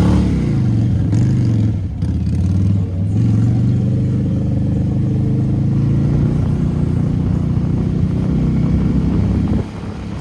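A vehicle engine run hard at high revs. The revs dip and recover a few times in the first three seconds, then hold high and steady, with a hiss over the top.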